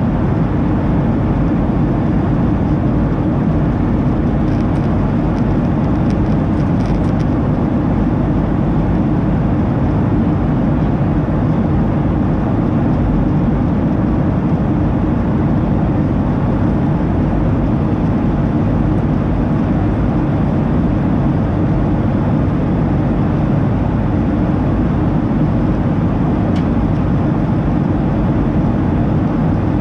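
Steady cabin roar inside a Boeing 737-800: engine and airflow noise heard from a rear window seat, low and even without rising or falling.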